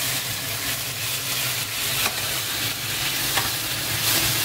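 Chicken pieces sizzling as they fry in hot butter in a non-stick pan, a steady hiss, stirred with a spatula that clicks against the pan a couple of times.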